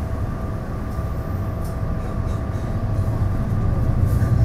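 TRA DR3000 diesel multiple unit running: a steady low rumble with a constant hum, the rumble growing louder over the last second or so.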